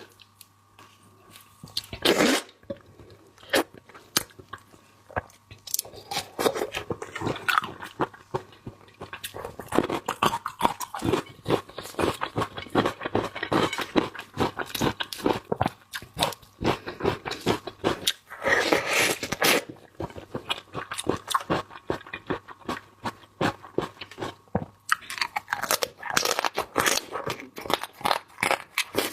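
Close-miked mukbang eating of seafood: dense, crisp crunching, biting and chewing, with a sharp loud crunch about two seconds in and louder bouts of crunching near the middle and toward the end.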